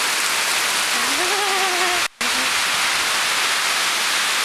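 Heavy tropical downpour: a steady, loud hiss of rain, cutting out for a split second just after two seconds in.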